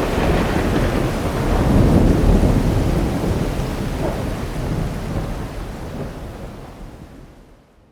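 Rolling thunder over steady rain, swelling about two seconds in, then fading away to silence near the end.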